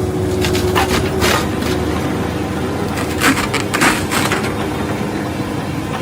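Heavy stump-grinding machine running steadily while roots and stump wood crack and splinter under it, in two bursts of sharp snaps.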